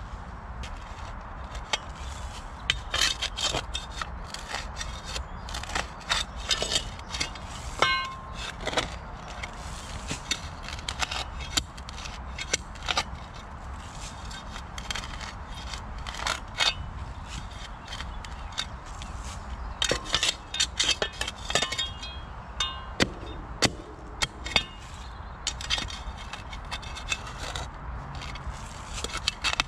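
Metal shovel digging into ground around a buried post: irregular sharp scrapes and clicks of the blade biting into soil and stones, in clusters with short pauses between them.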